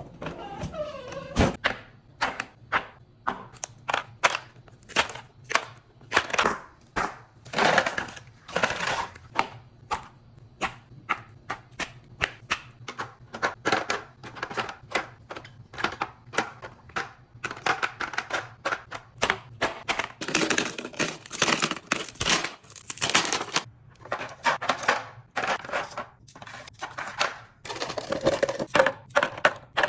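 Ice cubes clinking and clattering as they are dropped and poured into a container, in a rapid run of sharp clicks with a few longer rattling pours.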